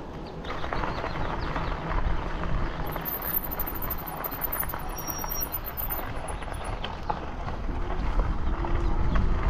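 Wind buffeting the microphone over the rumble of a bicycle riding along a paved path, a steady rushing noise that swells near the end.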